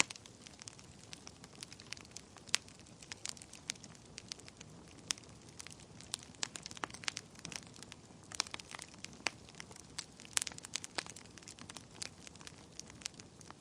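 Wood fire burning in a fireplace: irregular sharp pops and crackles of burning logs over a soft steady hiss of flame.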